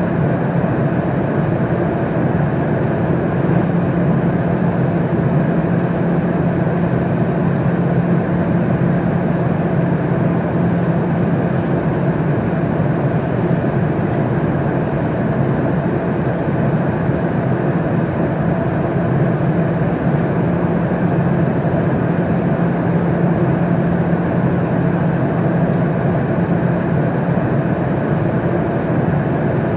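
Steady airliner cabin noise in flight: an even rush of air and engine noise with a low hum that does not change.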